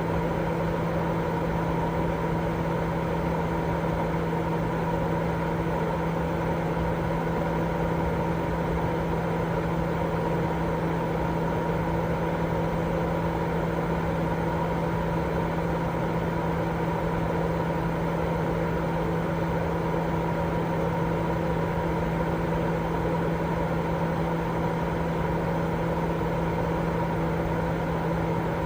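Continuous white noise for baby sleep: a steady, even rushing noise, strongest in the low and middle range, with a constant low hum running through it and no change at all.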